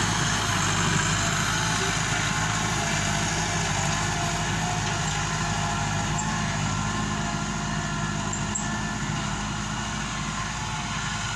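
Massey Ferguson 385 tractor's Perkins diesel engine running steadily at an even speed.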